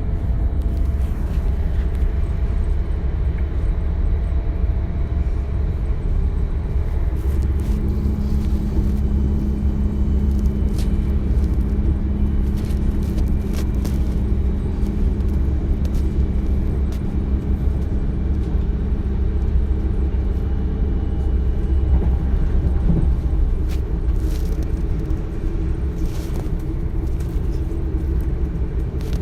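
DB Class 425 electric multiple unit under way, heard from inside the passenger compartment: a steady low rumble of the running gear on the track. A steady hum joins in about seven seconds in and fades about twenty seconds in, with a few short clicks and knocks along the way.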